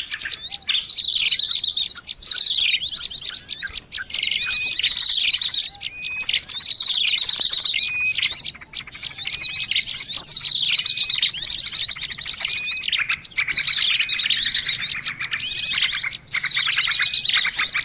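Dense chorus of many small songbirds chirping and trilling over one another without a break, with a short high note repeating about once a second. It is a lure recording made to draw small birds in.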